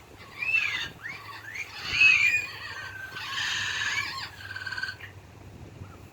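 Parrots calling: a run of arching whistles and harsh squawks in quick succession, which stops about five seconds in.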